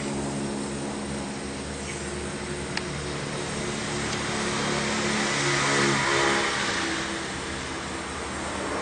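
An engine running at a steady speed, with a hissing noise that swells louder about six seconds in and fades again. One sharp click sounds about three seconds in.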